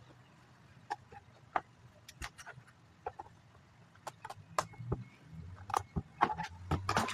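Plastic Lego bricks clicking and clattering as pieces are handled and snapped together, an irregular scatter of sharp clicks that grows busier near the end, over a faint low hum.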